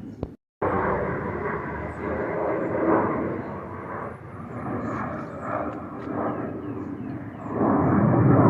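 Blue Angels F/A-18 jets flying over: a steady, rough jet engine rumble that ebbs and swells and grows louder near the end as they come closer.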